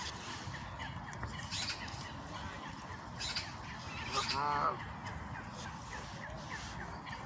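Birds calling over a steady background hiss: a run of short chirps, and about four seconds in one louder call lasting about half a second.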